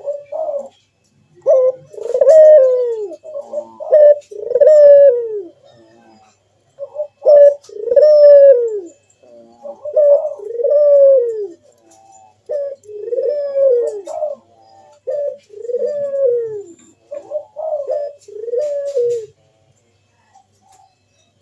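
Ringneck dove (burung puter) cooing in its full song: seven repeated phrases, each one or two short notes followed by a long arched coo that falls away, about every two to three seconds.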